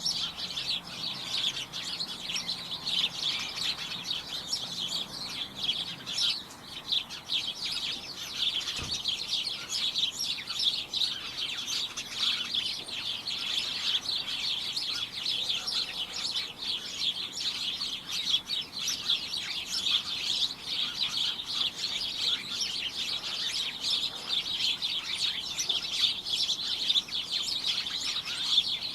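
A flock of small birds chirping continuously, with many short, high chirps overlapping in a dense, cacophonous chatter. A faint low thud comes about nine seconds in.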